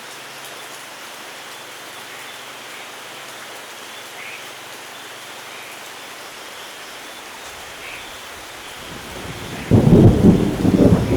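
Steady rain falling, with a few separate drops heard over the hiss. Near the end a low rumble swells and breaks into a loud thunderclap that keeps rolling.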